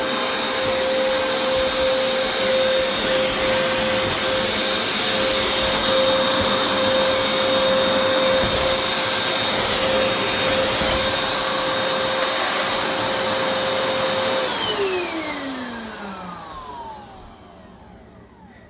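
Hoover FloorMate hard-floor cleaner running on its vacuum setting: a loud, steady motor whine with a clear high tone. About fourteen seconds in it is switched off, and the whine falls in pitch and fades as the motor spins down.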